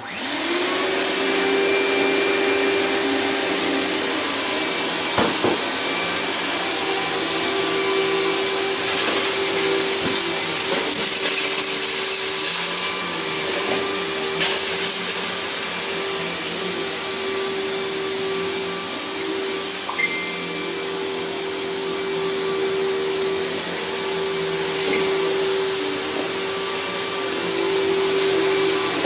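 Riccar 10-amp bagged vacuum cleaner switched on, its motor spinning up within a second and then running steadily with a steady hum, with a few brief clicks along the way.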